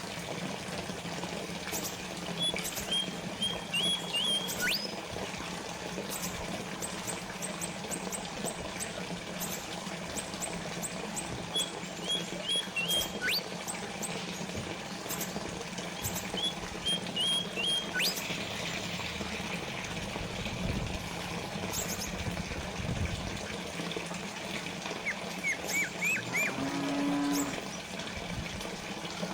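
Fountain water trickling and splashing steadily over a low steady hum, with small birds chirping in short quick runs and giving quick rising whistles now and then. A brief low call sounds once near the end.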